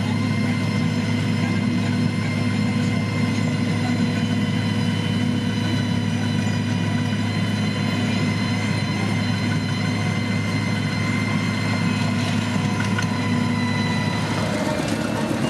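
Diesel engine of heavy road-construction machinery running steadily, a deep even hum with a steady whine above it; the deepest part of the hum drops away shortly before the end.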